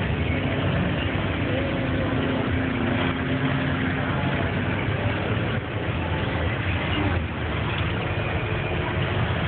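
1994 Suzuki Tracker's four-cylinder engine running steadily at low speed as it drives through mud and water, heard from inside the cab.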